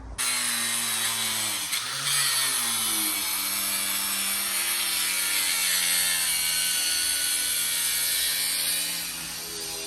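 Angle grinder starts suddenly and cuts through a tire mounted on a billet rim. Its motor pitch wavers as the blade loads and unloads, and it eases off slightly near the end.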